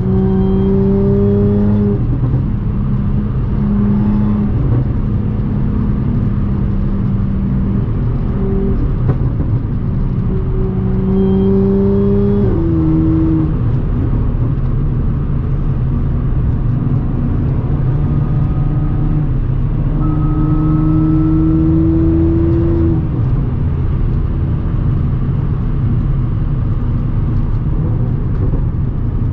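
Audi S4 B8.5's supercharged 3.0-litre V6 running at a steady cruise through an AWE exhaust with test pipes in place of the catalytic converters. Its drone holds steady, slowly rising in pitch a few times, with a step down in pitch about twelve seconds in and again near twenty-three seconds.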